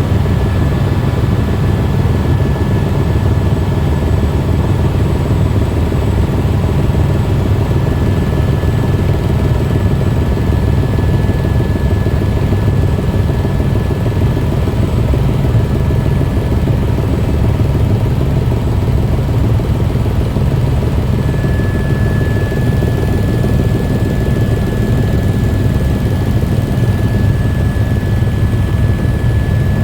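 Helicopter in flight: a loud, steady, low drone of rotor and engine, with a thin steady whine above it that grows stronger about two-thirds of the way through.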